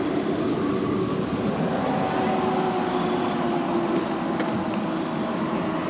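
A motor vehicle's engine running with a steady rush of noise, a faint tone in it slowly dropping in pitch.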